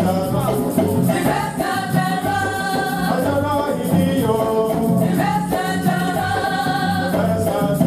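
Gospel music: a group of voices singing together over a steady beat with a repeating bass line and a light, even high percussion tick.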